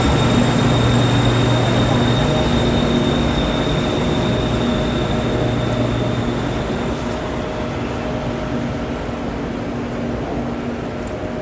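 BTS Skytrain electric train coming to a stop at the platform, its steady motor hum and high whine fading out about halfway through.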